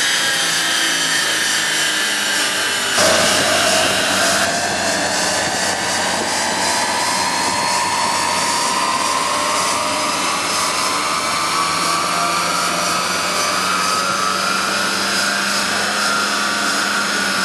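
Lada Vesta's 1.6-litre engine driving the car's wheels on a dynamometer at full throttle for a power measurement. A whine that drops abruptly about three seconds in, then climbs slowly and steadily in pitch as the engine revs up under load.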